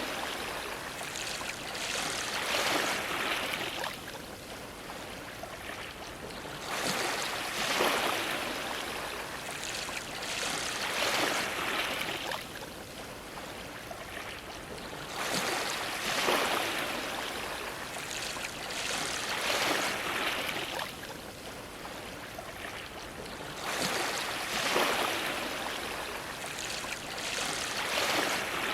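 Sea waves washing against a dock, each wave swelling into a hissing wash and ebbing away every few seconds.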